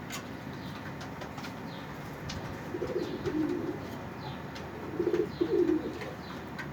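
Pigeon cooing: two low cooing phrases, about three seconds in and again about five seconds in, with faint high chirps from small birds in the background.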